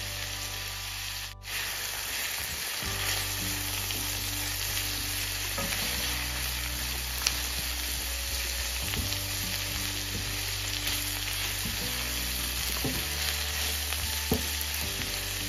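Prawns and sliced vegetables sizzling in hot coconut oil in a nonstick wok while a spatula stirs them, a steady frying hiss. Two sharp ticks cut through, about seven seconds in and near the end.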